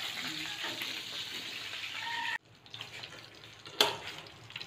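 Fish heads sizzling in hot oil in a frying pan, a steady hissing spatter. It cuts off abruptly a little past halfway, leaving fainter crackling and one sharp click near the end.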